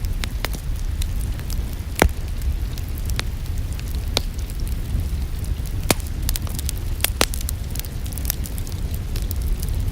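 Wood fire burning in a fireplace, crackling with scattered sharp pops over a steady low rumble of the flames; the loudest pops come about two, six and seven seconds in.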